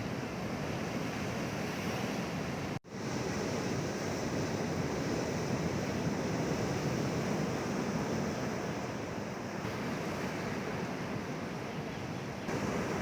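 Sea waves washing onto the shore in a steady rush of surf, with a brief dropout about three seconds in.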